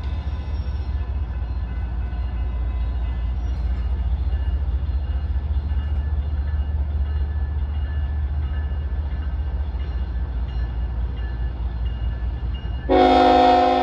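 Train rolling along with a steady low rumble and a faint high ringing from the rails. Near the end a locomotive's multi-note air horn starts blowing, much louder.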